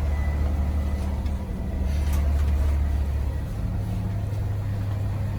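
Charter coach's diesel engine running, heard from inside the bus: a steady low hum whose note steps up slightly about three and a half seconds in.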